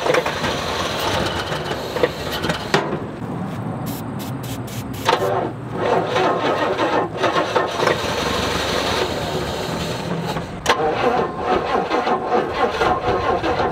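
Rolls-Royce Silver Shadow's V8 being cranked over by its starter, with brief pauses between tries, without catching: the long-parked car will not start.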